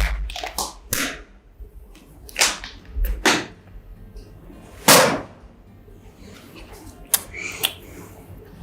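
Close-up eating sounds of a fried corn dog: crisp crunches of the battered coating being bitten and chewed, half a dozen sharp crunches with the loudest about five seconds in.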